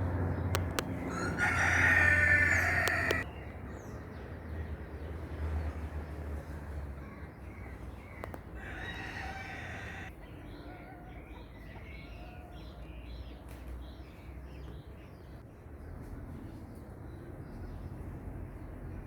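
A rooster crowing twice: a loud crow about a second in and a fainter one around eight seconds in. Small birds chirp briefly after the second crow, over a low steady hum.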